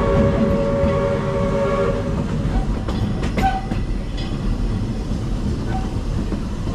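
Walt Disney World Railroad steam train's whistle sounding a steady chord that stops about two seconds in, over the low rumble of the train running along the track, with a few sharp clanks in the middle.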